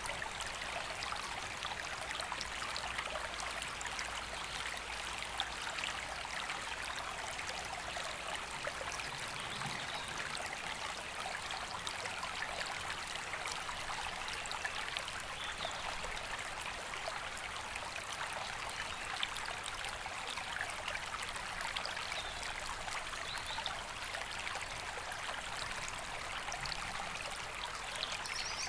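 River water flowing over stones in a steady, even rush with light trickling.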